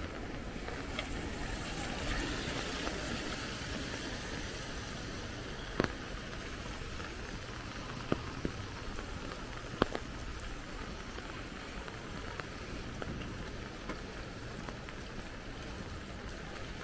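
Steady rain falling on a street, over a low steady rumble, with a few sharp taps about six, eight and ten seconds in.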